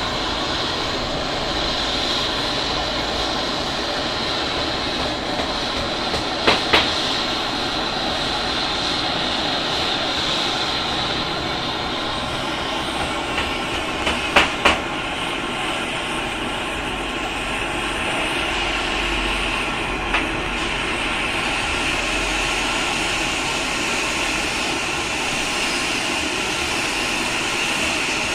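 Steady mechanical running noise, with a few short sharp clicks about a third of the way in, around halfway, and once more a little later.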